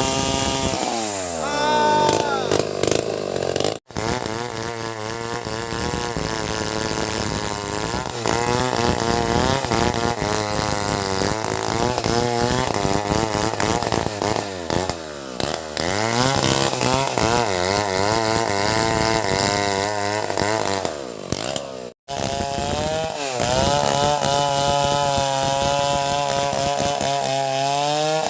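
Two-stroke chainsaw engine running under load as it cuts wood, its pitch rising and falling as the throttle is opened and eased off. It drops out abruptly for an instant twice, where the clips are spliced together.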